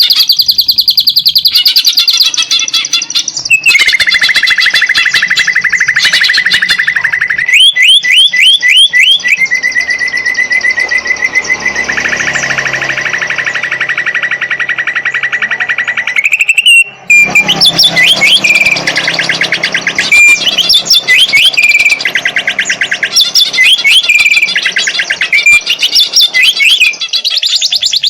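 Greater green leafbird (cucak ijo) singing loudly and without pause: fast trills, long even buzzing trills and quick repeated whistled notes in its fighter song.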